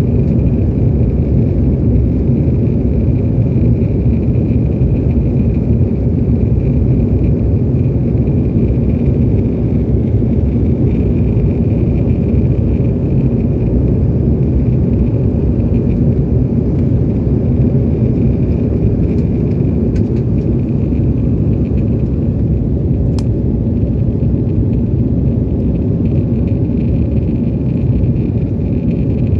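Cabin noise inside an Embraer E190 airliner during takeoff or climb: the General Electric CF34 turbofans and airflow give a loud, steady rumble with a faint whine above it.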